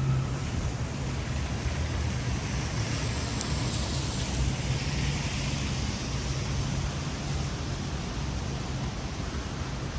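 Traffic on a wet city street: a steady low hum, with the hiss of tyres on wet pavement swelling and fading in the middle.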